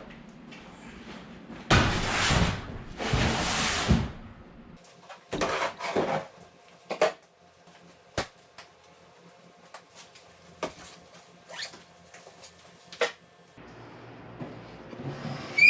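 Camping gear being handled and packed: two long rustling swishes near the start, then a scattered series of light clicks and knocks.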